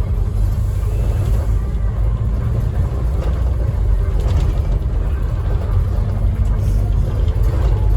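Scania N270UD OmniCity bus heard from inside the passenger saloon: a steady low engine and road rumble, with a low hum that cuts out about seven seconds in.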